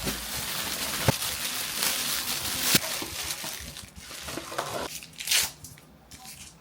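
Rustling and crinkling handling noise, with a few sharp clicks and a short louder rustle about five seconds in.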